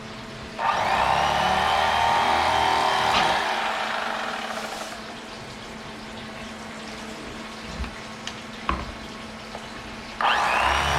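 Electric fillet knife motor switching on and running with a whine that shifts in pitch as it cuts through a crappie, then dropping away after about three seconds. A few light clicks follow, and the knife starts up again suddenly near the end.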